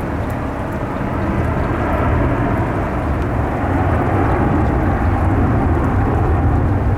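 Heavy wind-driven rain with gusts buffeting the microphone, a dense low rumble and hiss that swells slightly about a second in.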